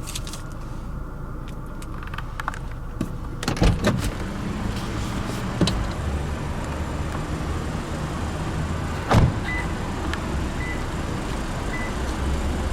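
Lexus NX 200t smart-key warning beeping three times, short high beeps about a second apart, just after a door thump: the car signalling that the proximity key has left the cabin. Clicks and handling noise come a few seconds earlier, over a steady low hum.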